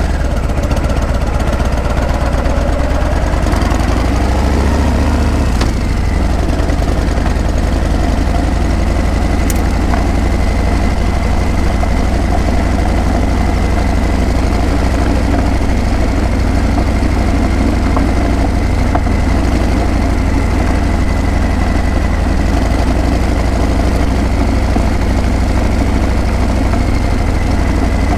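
Harley-Davidson Breakout's V-twin engine and exhaust running steadily with a deep, low note. A short shift in pitch comes in the first few seconds.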